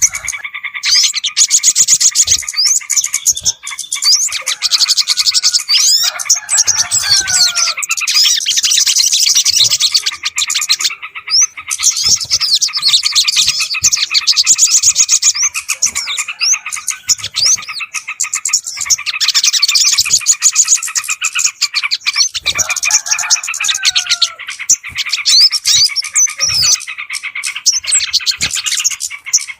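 Dense chorus of small-bird chirps, rapid twitters and trills: a bird-lure (pikat) recording used to draw in sooty-headed bulbuls and other small birds. The same passage repeats about every sixteen seconds, as a looped recording does.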